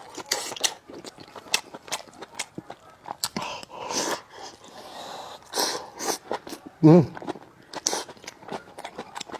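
Close-miked eating sounds: a person biting and chewing, with many quick wet mouth clicks and smacks. A brief hummed sound comes about seven seconds in.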